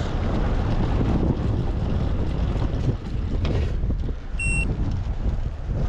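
Wind buffeting the microphone, a steady low noise, with one short high electronic beep about four and a half seconds in.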